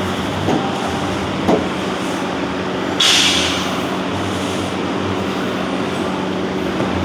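Steady rumbling, machine-like noise with a low hum, broken about three seconds in by a brief loud hiss.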